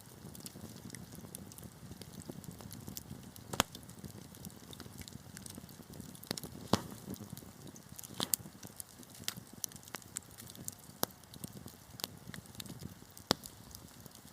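Wood fire burning in a fireplace: a low steady roar of flames with scattered sharp crackles and pops, a few of them louder.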